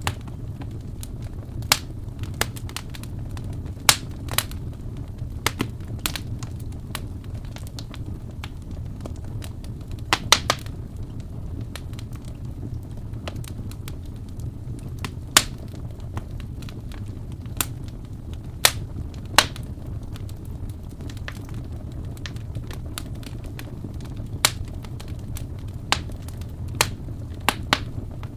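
Wood fire in a fireplace crackling: sharp, irregular pops and snaps, with a short burst of them about ten seconds in, over a steady low rumble of burning.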